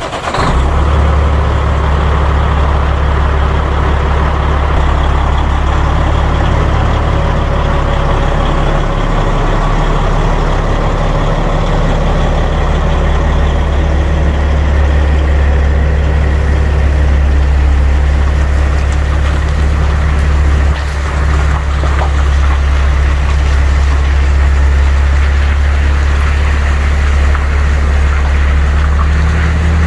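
Semi truck's diesel engine running steadily with a low, even hum; the pitch shifts a little about a third of the way in and again near the end.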